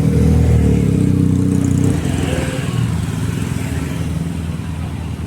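Street traffic: a motor vehicle's engine passes close by, loudest for the first two seconds, then fades into the general hum of the street.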